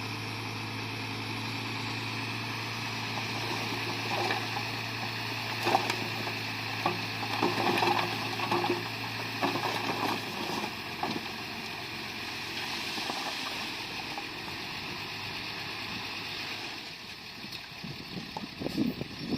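Bulldozer at work: its engine holds a steady low hum that stops about ten seconds in, over a steady hiss, with a run of clanks and knocks in the middle.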